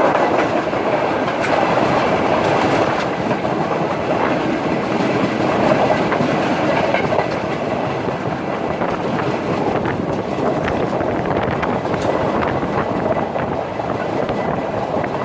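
Express passenger train running along the line: a steady rolling rumble with the wheels clicking over rail joints.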